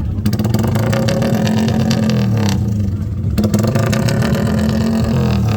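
Engines revving loudly, with rises and falls in pitch.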